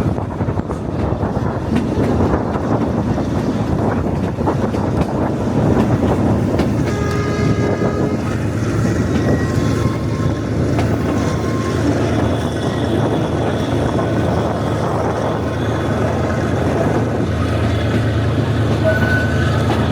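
Metre-gauge sightseeing train running on the Yunnan–Vietnam railway: a steady rumble and clatter of the wheels on the rails. A brief horn sounds about seven seconds in, and a deeper hum comes in near the end.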